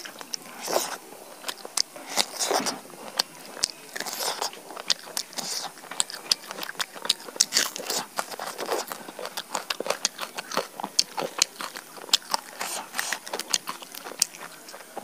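Close-miked chewing and biting as a person eats roast chicken by hand and bites into raw red onion, with many sharp wet mouth clicks and smacks.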